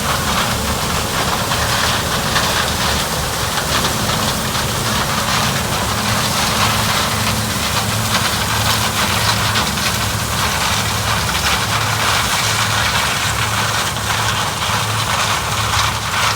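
Diesel engine of harvest machinery (combine or grain-cart tractor) running steadily with a low hum and mechanical noise, the hum growing stronger about halfway through.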